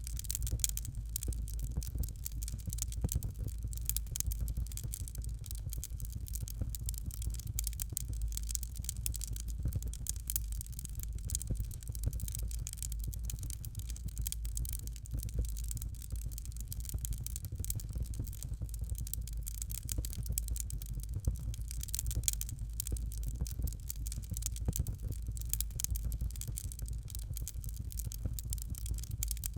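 Fireplace fire crackling: a dense run of small pops and snaps over a steady low rumble of the flames.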